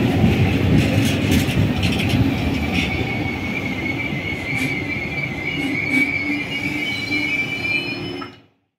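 Trenitalia double-deck regional electric train rolling along the platform: a heavy steady rumble with a few sharp clicks, and a high wheel squeal held from about three seconds in. The sound cuts off suddenly near the end.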